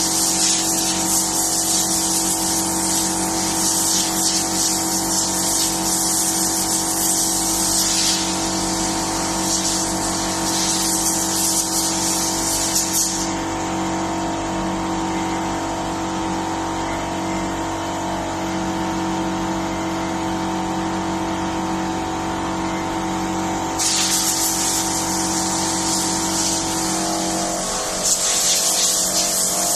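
A machine running with a steady hum and a loud hiss. The hiss cuts off about thirteen seconds in and comes back about ten seconds later, and the hum's pitch shifts slightly near the end.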